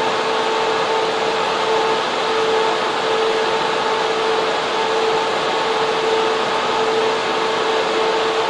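Server room fans and air cooling running, a loud, steady rushing hum with a constant whine underneath.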